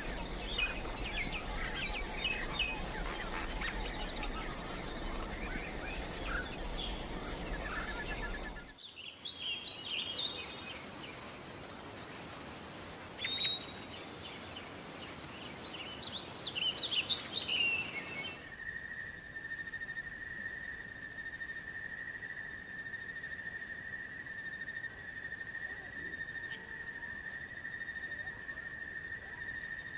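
Forest wildlife sounds in three sections divided by abrupt cuts. First a dense chorus of bird chirps over a steady hiss. Then, from about nine seconds in, scattered single bird calls. From about eighteen seconds, a continuous high insect trill, steady in pitch.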